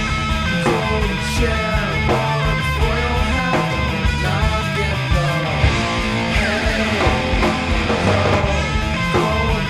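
Loud rock music: distorted electric guitars with bass and drums playing a fast, dense passage, with guitar lines bending in pitch.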